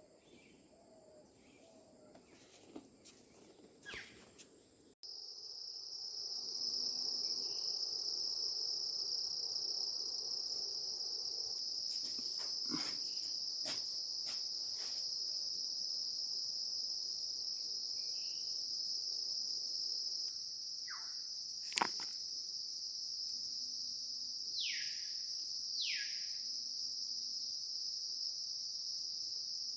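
Steady, high-pitched insect chorus that starts abruptly about five seconds in and holds to the end. A few short falling whistles and one sharp click come over it near the end.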